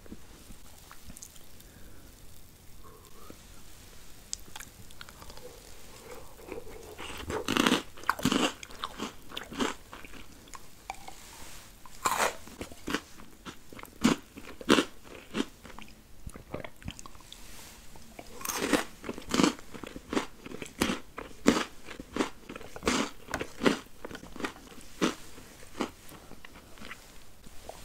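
Close-miked eating of chocolate treats: biting and chewing with wet mouth sounds, in irregular clusters of sharp clicks.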